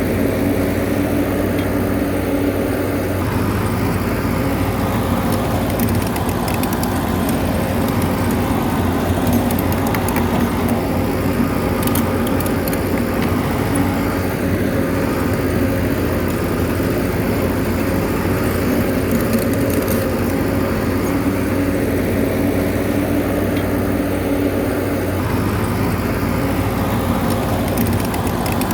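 Bulldozer's diesel engine running steadily, with a few light clicks about ten to twelve seconds in.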